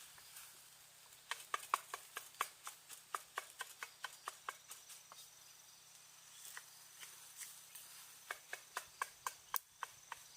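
A cooking utensil clicking against a frying pan in quick repeated strokes, about four a second, while stir-frying rice. There are two runs with a short pause between them.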